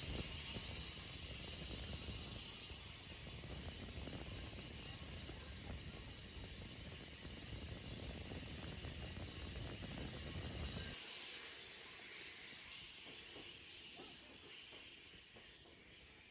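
Passenger train in motion: a steady hiss with a low rumble underneath. The rumble cuts off abruptly about eleven seconds in, leaving a fainter hiss that fades away.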